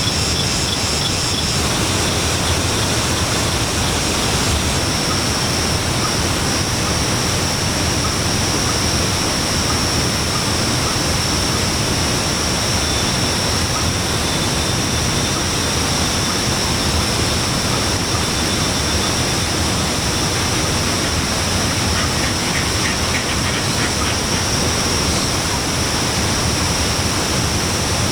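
Steady, loud rushing water noise, unbroken and even, with a thin high-pitched drone held above it.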